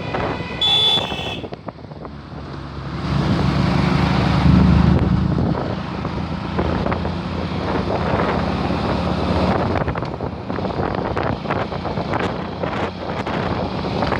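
Wind buffeting the microphone on a moving ride, with road traffic around it. There is a brief high beep about a second in, and a vehicle's low engine rumble swells and fades between about three and six seconds.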